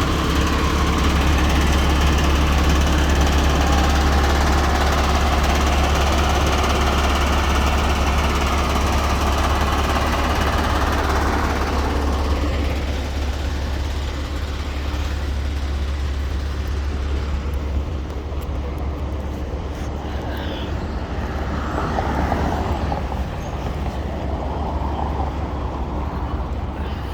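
Heavy diesel vehicle engine running with a steady low drone. A broad rushing noise sits over it for roughly the first twelve seconds, then fades, leaving the engine quieter.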